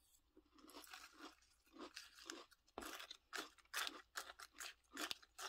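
A person chewing a mouthful of Apple Pie Toast Crunch cereal in milk: a steady run of crunchy chews, about three a second.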